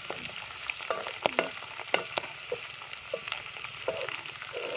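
Food sizzling in hot oil in a pan, with scattered sharp clicks and scrapes of stirring.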